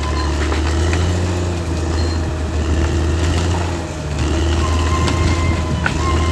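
Caterpillar D6R XL bulldozer's diesel engine running steadily, dipping briefly about four seconds in, with scattered metallic clanks and thin high squeaks.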